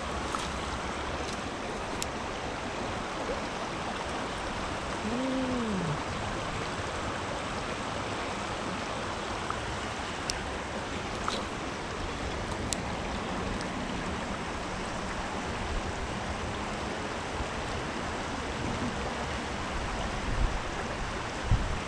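Creek water running steadily, with a few faint clicks.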